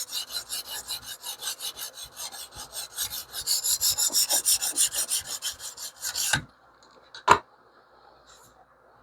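A 150-grit stone on a TS Prof Kadet Pro guided sharpener being run rapidly back and forth along a cleaver's steel edge, a steady gritty rasp. The strokes stop about six seconds in, and a single sharp click follows about a second later.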